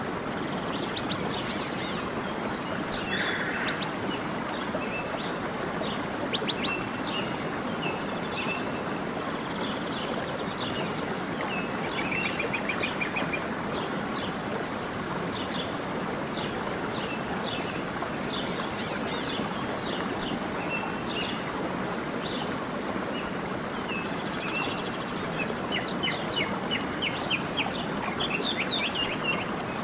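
Small songbirds chirping and trilling over the steady rush of a flowing stream. The chirps come in quick scattered bursts, with a run of rapid trills near the end.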